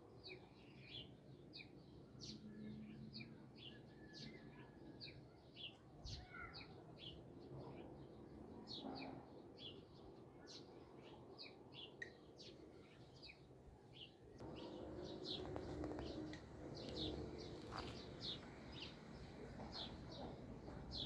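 Small birds chirping, with short, high chirps coming several times a second over a faint outdoor background. About two-thirds of the way through, a louder low sound joins underneath.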